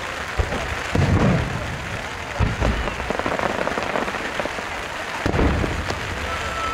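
Steady heavy rain falling, with about four low fireworks booms going off over it, the loudest about a second in and another near the end of the first half and after five seconds.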